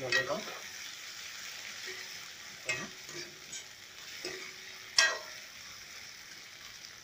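Crushed sour mango, onion and chillies sizzling in hot oil in a steel wok, with a spatula stirring and knocking against the metal a few times; the loudest knock comes about five seconds in.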